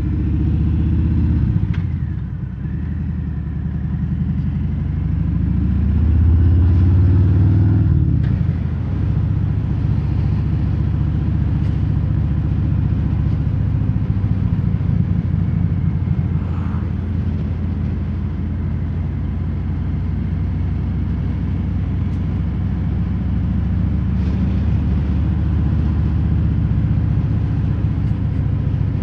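Harley-Davidson Fat Bob's Milwaukee-Eight V-twin through Vance & Hines Hi-Output slip-on mufflers without quiet inserts, heard from inside the rider's helmet with wind noise. The engine revs up twice in the first eight seconds, dropping off after each, then settles into a steady cruise.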